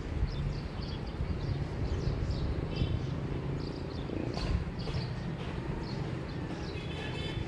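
Small birds chirping and calling again and again over a low, steady background rumble, with a buzzier call about three seconds in and again near the end.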